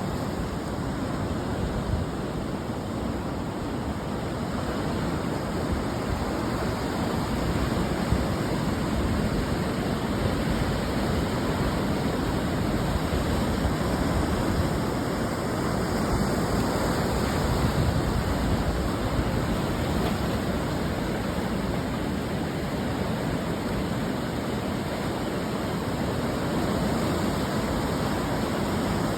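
Ocean surf breaking on a beach: a continuous, even wash of waves rising and falling only gently in loudness.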